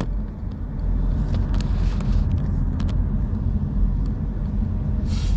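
Steady low rumble of the vehicle he is driving in slow traffic, engine and road noise, with a brief hiss near the end.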